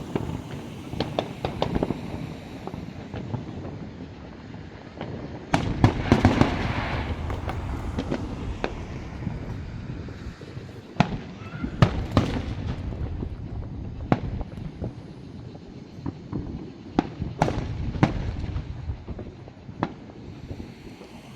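Fireworks show: aerial shells bursting with sharp bangs at irregular intervals. The loudest is a cluster about six seconds in, followed by a hissing crackle, with more strong bangs around twelve and seventeen seconds in.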